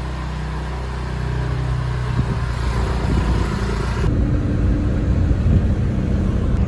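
A road vehicle's engine running: a steady low hum for about two seconds, then a louder, rougher rumble.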